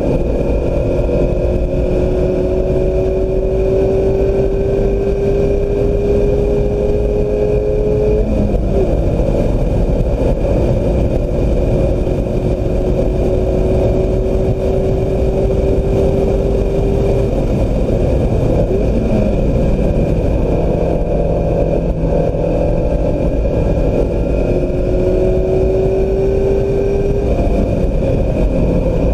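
2016 Mazda MX-5 Miata's four-cylinder engine pulling hard, its revs climbing slowly through long stretches and dropping off about eight seconds in and again near seventeen seconds. Steady road and wind noise runs under it.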